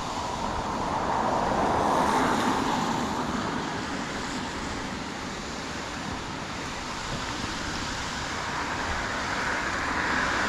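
Cars passing on the road: tyre and engine noise swells about two seconds in and fades, then another vehicle builds up near the end. Steady rushing water from the stream lies underneath.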